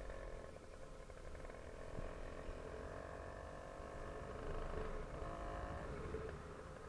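Small engine of a motorized bicycle running with an even, rapid firing pulse. Its revs creep up and it gets louder towards the end, then it drops back about six seconds in.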